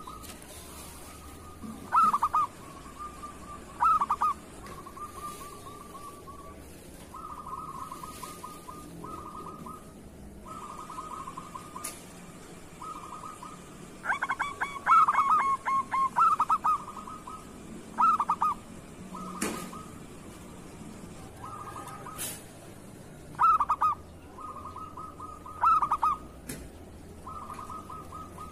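Zebra dove (perkutut) song: runs of soft rolling, trilled coos at a steady pitch, broken by louder cooing phrases every couple of seconds. A sharp click sounds about two-thirds through.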